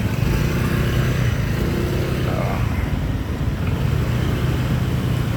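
Motorbike running steadily under way, its engine a low, even hum under a constant rush of road noise, heard from the back of the bike.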